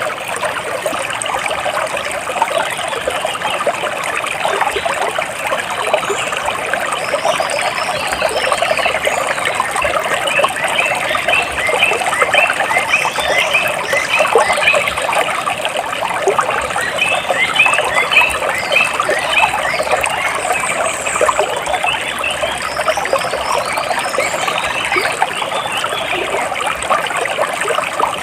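Water trickling and splashing steadily, with small birds chirping over it in short runs of quick repeated notes, twice in the middle stretch.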